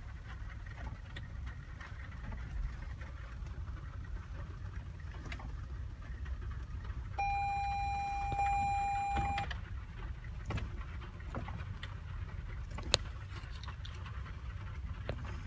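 A single held electronic beep, one steady tone lasting about two seconds, starting about seven seconds in, over a low steady rumble with scattered light clicks and one sharp click near the end.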